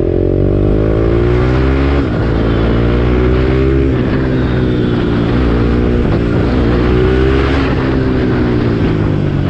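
BMW G310R's single-cylinder engine through a replica Akrapovic full-system exhaust, pulling steadily up through the revs while riding. The pitch rises, drops at two gear changes about 2 and 4 seconds in, then climbs again and eases off near the end. It is a clean, not overly loud exhaust note.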